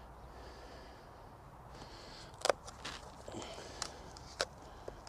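A few sharp clicks and knocks of objects being handled, the loudest about two and a half seconds in, over faint background hiss.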